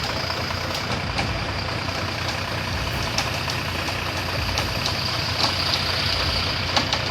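Tractor engine running steadily, with scattered light clicks over it.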